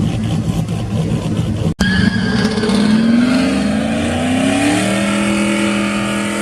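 Pickup truck engine revving hard, its pitch climbing for about two seconds and then holding steady at high revs, with a hiss of tyre noise over it; the sound breaks off abruptly just before two seconds in.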